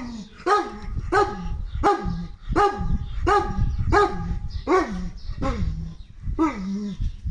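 A dog barking repeatedly and steadily, about ten barks spaced well under a second apart, each dropping in pitch as it ends.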